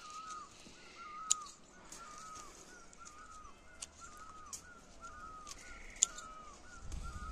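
A bird calling over and over, a short bent note about twice a second. Twice, about a second in and again about six seconds in, hand pruning shears give a sharp snip as they cut through apple fruit stems.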